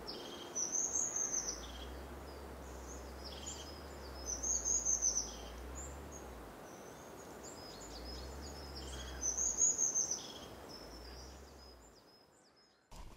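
A bird singing three bouts of quick, high-pitched chattering notes, about four seconds apart, over a faint outdoor background with a low rumble. The sound cuts off abruptly near the end.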